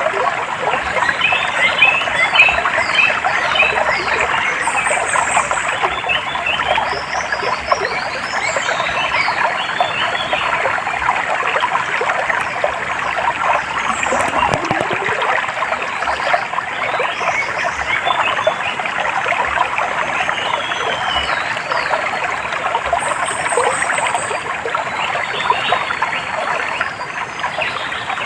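Water trickling and flowing, under a dense, continuous chorus of many short chirps and calls from frogs and birds.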